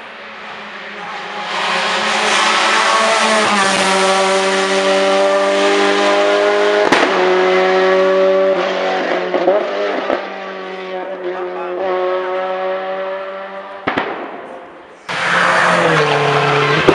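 Hillclimb race car engine at high revs, climbing in pitch as the car comes up and holding near full throttle, with brief dips at the gearshifts and a few sharp cracks. About two seconds before the end it cuts abruptly to another race car running at high revs.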